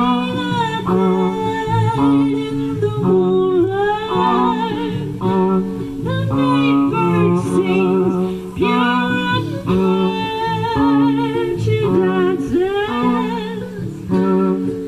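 Live band playing a song's introduction: plucked guitar chords under a held melody line with a strong vibrato.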